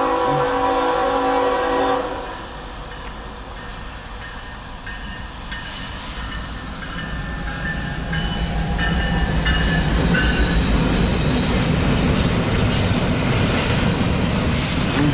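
A Norfolk Southern diesel locomotive's air horn sounds a chord for about two seconds. Then the intermodal train's rumble grows louder as it draws near, with thin squeals from the wheels on the rails.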